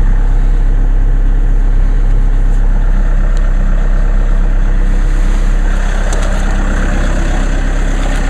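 Chevrolet diesel car engine idling steadily just after a cold start, heard from inside the cabin. From about five and a half seconds in, the hiss of the defroster blower grows louder over the idle.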